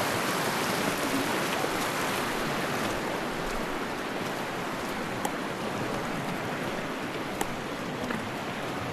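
A fast mountain river rushing, a steady, even wash of water noise, with two faint clicks about five and seven and a half seconds in.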